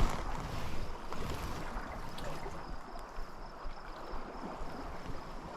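Steady noisy wash of river water and wind on the microphone, with a few faint ticks.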